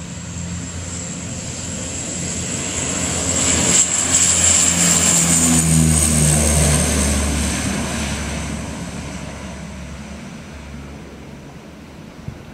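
Dash 8 Q300's twin turboprop engines at take-off power: propeller drone with a high turbine whine, growing louder to a peak about four seconds in, then dropping in pitch and fading as the aircraft passes and climbs away.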